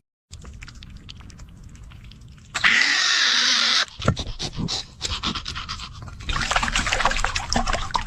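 An animal breathing hard in short, noisy puffs. A louder noisy burst comes in about two and a half seconds in and cuts off abruptly about a second later.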